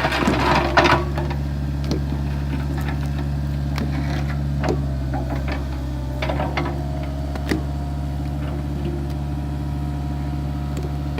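Excavator's diesel engine running steadily while digging, with scattered clanks and knocks, and a louder clatter in the first second.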